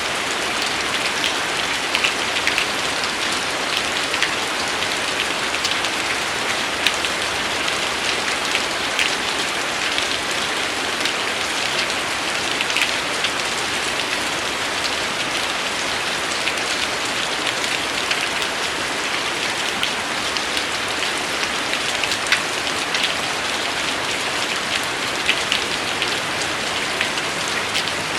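Steady rain falling on a surface, an even hiss with many distinct drop ticks scattered through it.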